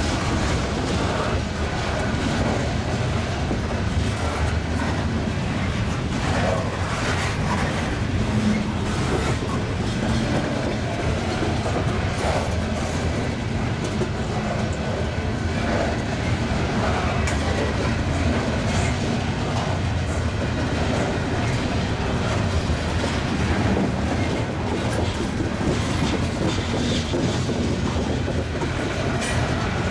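Covered hopper cars of a freight grain train rolling past: a steady rumble of steel wheels on rail, with scattered clicks as the wheels pass over the rail joints.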